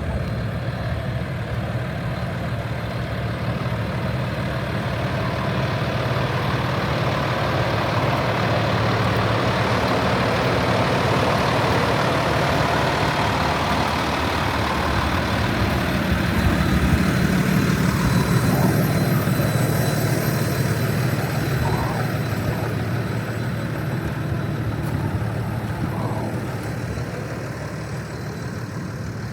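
Cummins ISL inline-six diesel of a Freightliner M2106 truck running steadily. It grows louder toward the middle and fades near the end.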